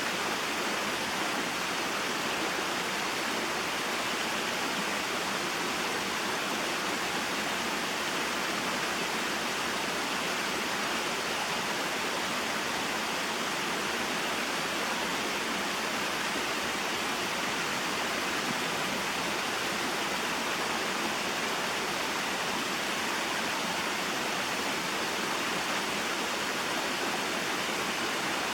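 Small mountain waterfall and stream: water falling and flowing over rocks in a steady, unbroken rush.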